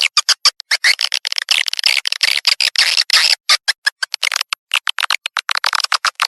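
Recorded swiftlet calls, played back as a lure to draw swiftlets to a nesting house: dense, rapid trains of high chirps and clicking twitters in irregular bursts with short gaps, with no low end.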